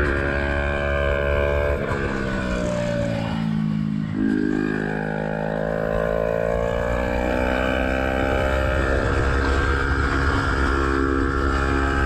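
Yamaha R125's single-cylinder four-stroke engine breathing through a Black Widow exhaust with the dB killer removed, heard onboard. Its revs fall for the first few seconds as the bike slows, pick up again about four seconds in, and climb steadily before holding.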